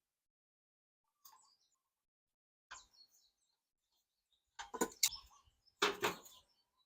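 Hand tools working on the scooter's exhaust fasteners: a few scattered metallic clicks and rattles, the loudest cluster in the second half.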